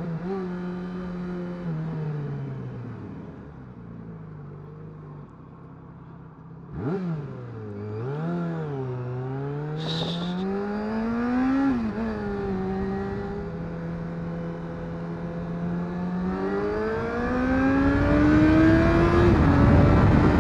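Motorcycle engine pulling through the gears: the revs climb and drop back several times as the rider shifts up, with a short blip about seven seconds in. A brief high-pitched chirp sounds about ten seconds in, and wind rush builds near the end as speed rises.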